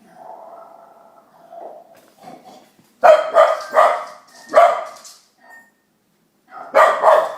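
Dog barking: a run of about four sharp barks about three seconds in, then two or three more near the end, after a fainter drawn-out sound in the first two seconds.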